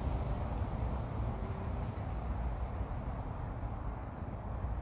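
Crickets chirring in one steady, high-pitched trill, over a low rumble.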